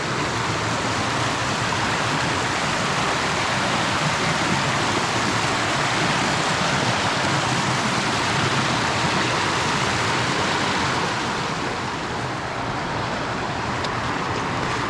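Mountain creek water rushing over rocks, a steady loud wash of noise that eases slightly about eleven seconds in.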